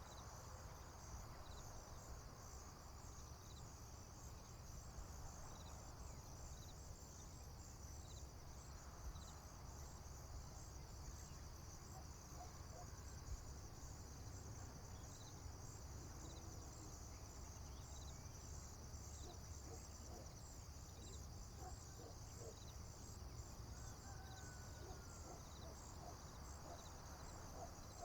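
Crickets and other field insects chirping steadily: a high, fast-pulsing trill with a separate chirp repeating about once a second, over a faint low rumble. Scattered short bird notes come in during the second half.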